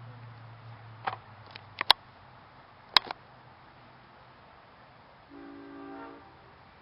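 A few sharp clicks and knocks in the first three seconds, then a horn sounding one steady chord for about a second near the end.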